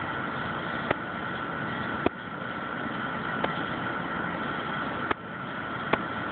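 Northern cardinal striking hard at glass with its beak: five sharp, irregular taps, the kind of territorial attack a cardinal makes on its own reflection. Behind them is a steady engine-like hum.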